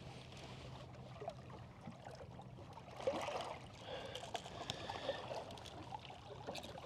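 Quiet sound aboard a small trolling fishing boat: a faint steady low motor hum with light water trickling, a few small knocks, and a brief faint squeak-like tone around the middle.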